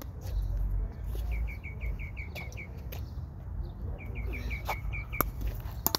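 A small bird calling in two fast runs of short, high chirps, about seven a second, over a low wind rumble on the microphone. Two sharp knocks come near the end.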